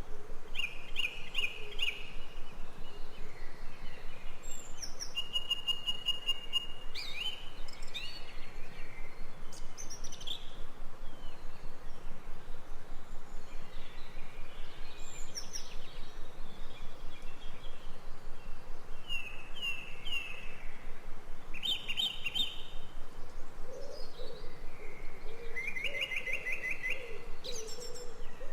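Several birds calling over a steady background hiss. Short bursts of rapid chirps repeat every few seconds, and a lower call repeats in the last few seconds.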